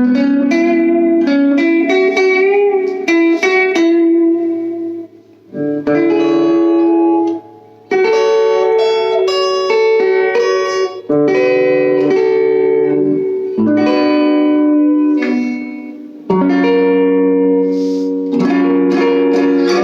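Electric guitar played through a small all-tube amp on its neck pickup, tone knob rolled down a little and gain set high, giving a clean tone. Phrases of single-note lines and chords with a few short breaks between them.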